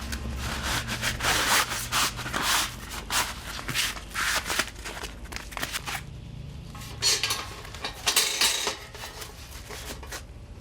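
Metal fire-pit parts being handled and fitted together for packing away: irregular rubbing and scraping of metal on metal, with a few light knocks.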